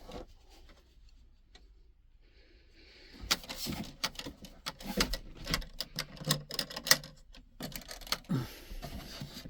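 Unpacking by hand: a soft rustle of packaging about two seconds in, then a quick run of small clicks and knocks as parts and packing are handled.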